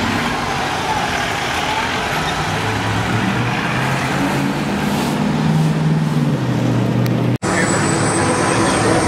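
A large truck's engine accelerating over road noise, its pitch climbing for a few seconds and then dropping back. The sound breaks off abruptly about seven seconds in and is replaced by a different vehicle sound.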